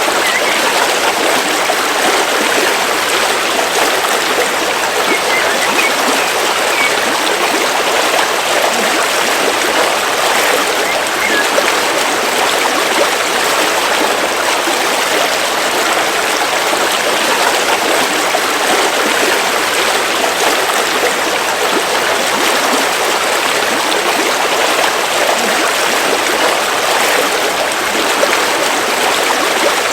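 River water flowing steadily over rocks in a continuous, even rushing.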